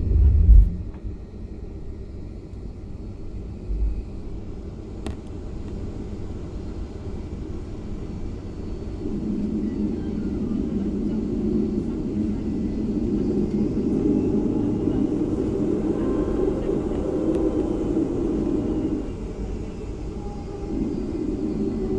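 Airliner cabin noise after landing: a steady low rumble of the aircraft's engines and air systems heard from inside the cabin, with a couple of heavy thumps right at the start.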